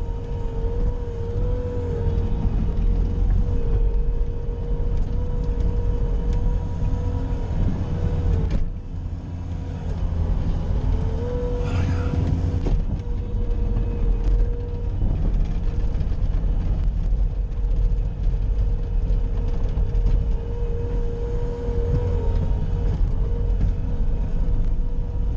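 Bobcat skid-steer loader running steadily under load while pushing snow: a deep engine rumble with a steady whine over it. The engine eases off briefly a little before halfway through, then picks back up.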